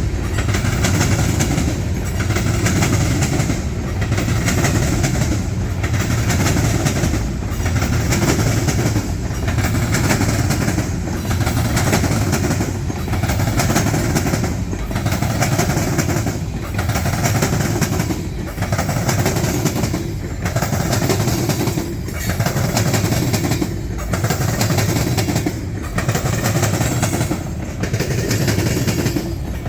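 Freight train cars rolling past: a steady noise of wheels on rail that swells and dips evenly about once a second as each car goes by.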